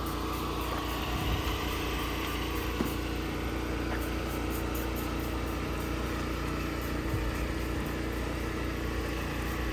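An engine running at a steady speed, a constant hum with no revving.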